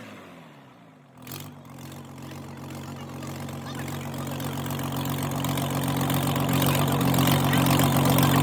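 Cummins NTA855 diesel engine catching about a second in, then running at a steady speed and growing louder.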